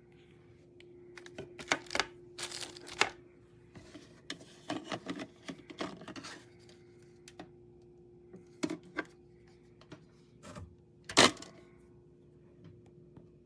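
Scattered clicks, taps and light clatter of plastic parts on a drip coffee maker being handled, with one louder knock about eleven seconds in, over a steady low hum.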